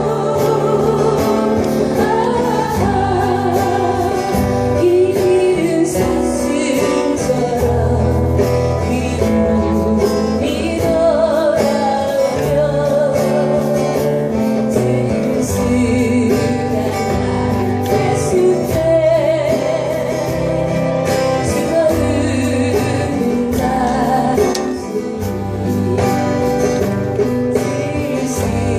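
A live band playing a Korean ballad: a singer holding a melody with vibrato over guitar and a steady bass line.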